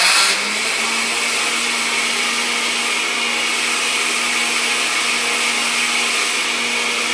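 Kitchen blender running on its ice-crush setting, its motor churning milk and ice with a loud, steady whir. The pitch steps up slightly about a second in and then holds.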